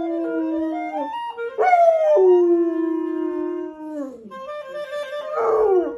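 Dog howling: three long drawn-out howls that slide in pitch, the last ending in a falling slide.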